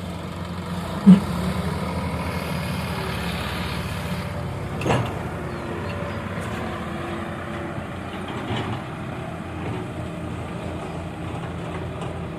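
Diesel engines of a tractor and a backhoe loader running steadily under load while hauling a loaded trolley. A sharp loud clank comes about a second in, with a smaller knock near five seconds.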